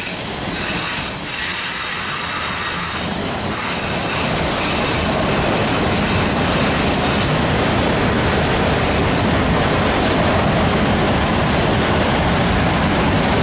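Union Pacific autorack freight train rolling past: a steady, loud rumble of steel wheels on rail that grows fuller about four seconds in.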